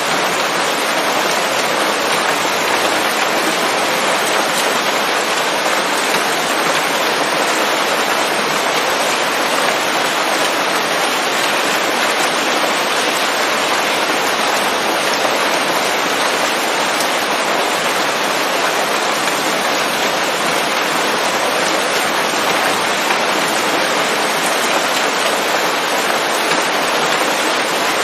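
Steady, heavy rain falling on leaves, an even dense hiss without thunder or any change.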